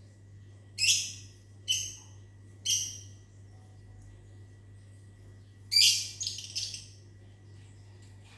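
Lovebirds giving short, shrill chirps: three single calls about a second apart, then a quick burst of several calls a few seconds later. A steady low hum runs underneath.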